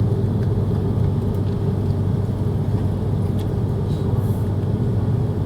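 Steady low rumble of a Cathay Pacific Airbus A330-300's engines and airflow heard inside the cabin, even and unchanging, with a few faint ticks.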